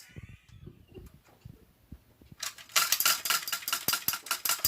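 A few faint taps, then about halfway in a dense run of rapid clinking and rattling of small hard objects.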